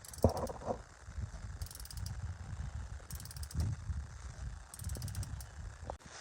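Ratchet wrench being worked in strokes, with four runs of rapid clicking about a second and a half apart and a low rumble of handling between them.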